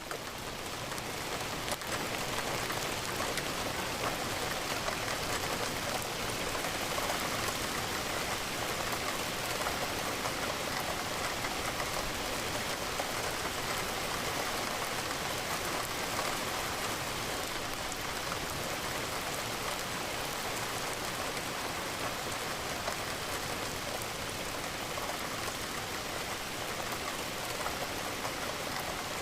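Steady rain falling on a window, an even hiss of raindrops.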